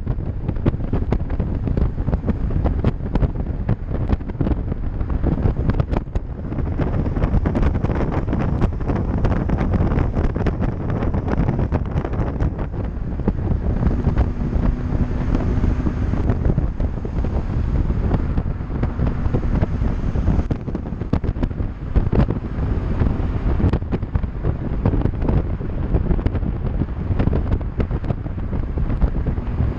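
Wind buffeting the microphone of a camera on a moving bike: a steady low rumble with frequent crackles.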